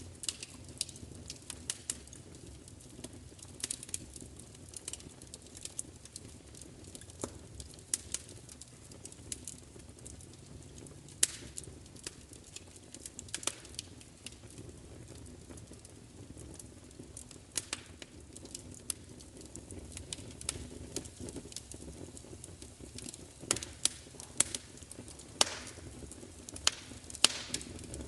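Wood fire crackling: irregular sharp pops and snaps over a steady low rumble of burning, with a cluster of louder pops near the end.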